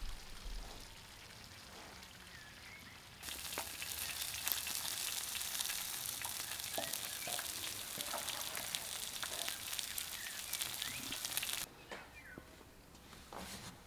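Food frying in hot oil: a dense sizzle full of small crackles that starts abruptly about three seconds in and cuts off suddenly near the end. Faint bird chirps are heard before and after it.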